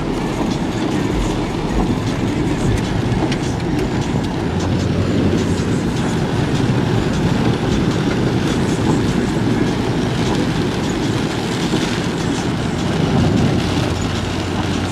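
Steady low rumble and rattle of a vehicle driving, with a faint scatter of ticks from the rain.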